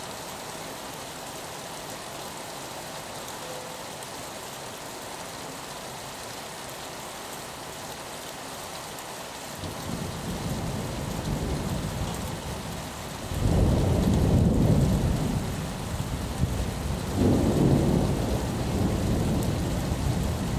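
Steady rain hissing on a window. About halfway in, a low roll of thunder builds in and swells loud twice before easing off.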